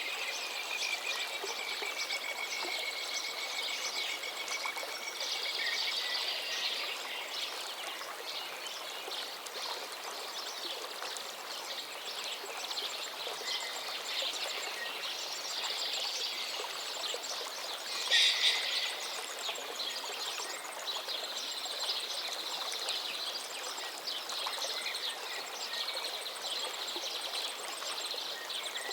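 A forest river flowing steadily, with songbirds singing over the water. A long whistled note comes near the start, and a brief louder burst of song a little past the middle.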